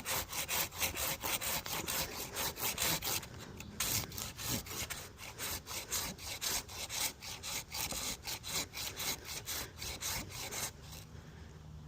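Hand pruning saw cutting through a tree limb with rapid back-and-forth strokes, pausing briefly about four seconds in and stopping near the end.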